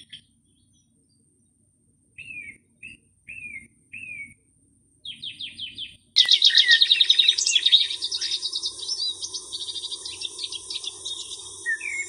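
Songbirds chirping: a few short, down-slurred call notes and a quick trill. About six seconds in, a louder, busy chorus of chattering birds starts abruptly over a steady insect drone.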